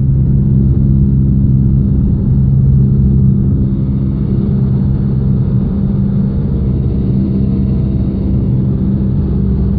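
Cessna 172's piston engine and propeller droning steadily in cruise flight, heard from inside the cockpit.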